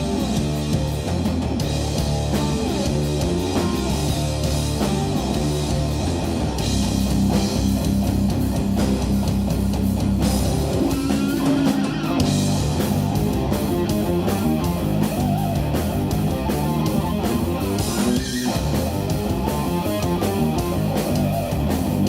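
Instrumental jazz-rock fusion trio playing live: electric guitar, electric bass and drum kit, with busy, shifting guitar lines over a steady beat.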